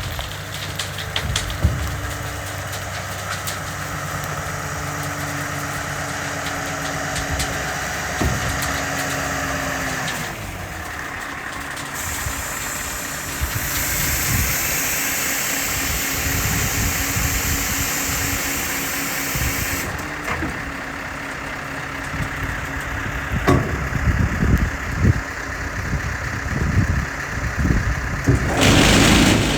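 Scania R520's V8 diesel engine running at idle, with a steady hiss from about twelve to twenty seconds in and a run of knocks and a loud rush of noise near the end.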